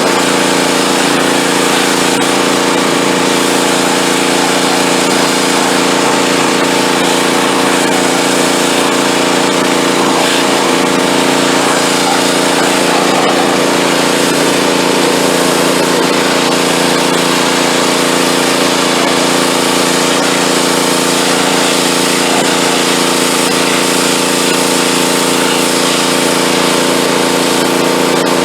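Gas pressure washer's small pull-start engine running steadily at constant speed under load while the pump drives the spray, with a hiss of water over the engine note; it runs smoothly.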